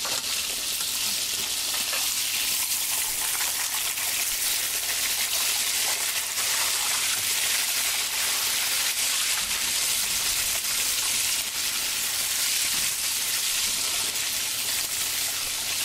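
A breaded pork cutlet shallow-frying in hot oil in a skillet: a steady, dense sizzle with fine crackling throughout.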